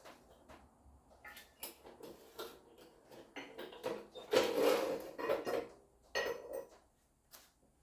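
Pieces of steel being handled: a run of light clinks and knocks, with a louder clatter about four and a half seconds in and another about six seconds in.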